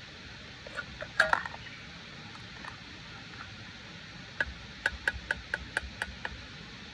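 Steady rain hiss, with a cluster of knocks about a second in, then a quick run of about nine short, sharp clinks near the end.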